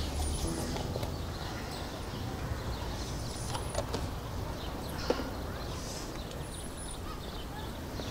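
Outdoor ambience: short, faint, high bird chirps every few seconds over a steady background hiss, with a couple of light clicks near the middle.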